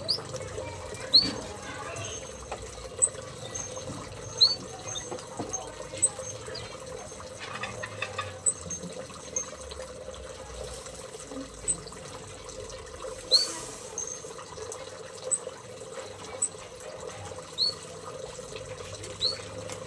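Small aviary birds giving short, sharp, high chirps one at a time, every second or few seconds, over a steady background of running water and a faint steady hum.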